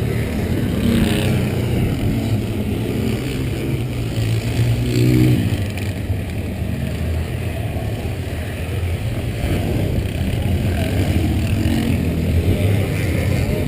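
An engine running steadily at low revs, with people talking in the background.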